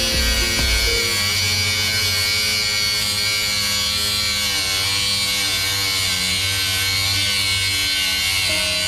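Angle grinder running steadily and cutting through a steel trailer U-bolt, a continuous high whine.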